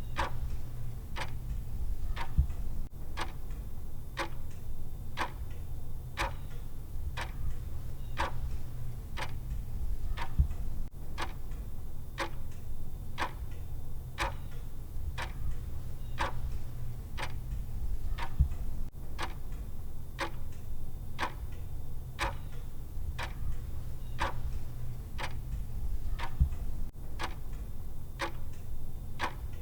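Clock-style ticking of a countdown timer: sharp, even ticks about twice a second, over a low steady hum.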